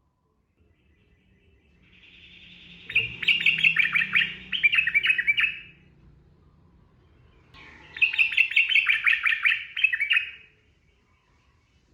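Sooty-headed bulbul (trucukan) singing two phrases, each a rapid run of loud notes lasting about three seconds and opening with a softer lead-in; the first starts about two seconds in, the second about seven and a half seconds in.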